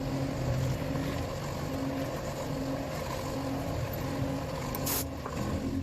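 A motor droning steadily, its hum swelling and fading at an even pace, with a short hiss of air about five seconds in.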